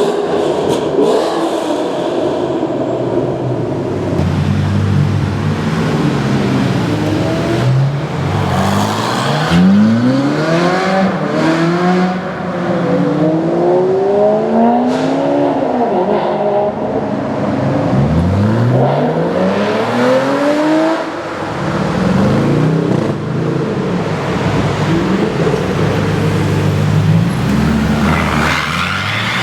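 High-performance car engines revving and accelerating hard, their pitch sweeping up again and again in quick succession, several runs overlapping, over a steadier engine drone in the first few seconds.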